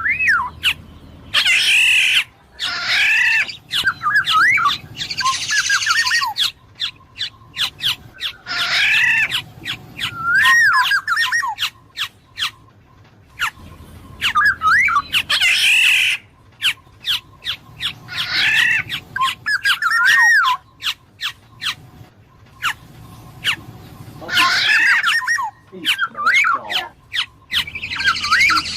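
Black-naped oriole (kepodang emas) calling: harsh, nasal squawks mixed with slurred, whistled notes, in a phrase repeated every five or six seconds. Many sharp short clicks fall between the phrases.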